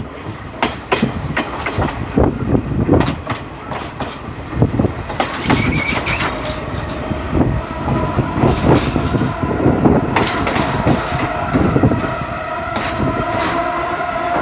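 Passenger train running on the track, its wheels clacking over rail joints in quick, irregular knocks. About halfway through, a steady ringing tone of several pitches comes in and holds.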